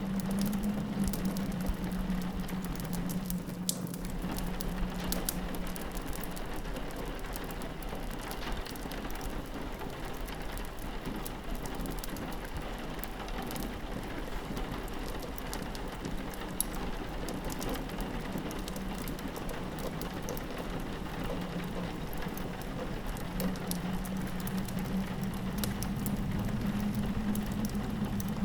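Steady rain pattering against a window pane, mixed with the small sharp pops of a crackling wood fire. A low steady drone runs underneath, fading away for the middle stretch and returning near the end.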